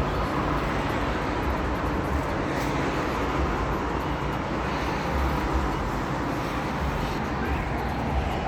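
Steady road noise of a car driving: a continuous low rumble with a rushing hiss, holding level throughout.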